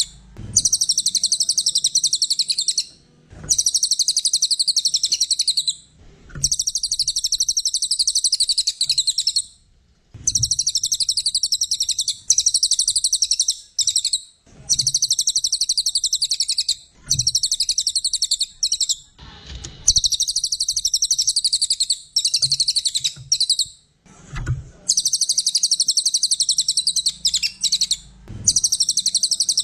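A cililin songbird singing in full song: long, rapid, high-pitched trilling phrases of two to three seconds each, repeated one after another with short pauses between. Soft low knocks fall in some of the pauses.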